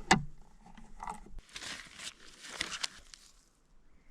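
A sharp knock right at the start, followed by scattered rustling and scraping handling noises that die away after about three seconds.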